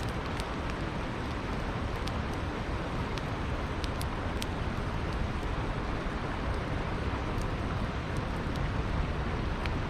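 Steady rush of a flowing river, with a campfire giving a few scattered sharp crackles over it.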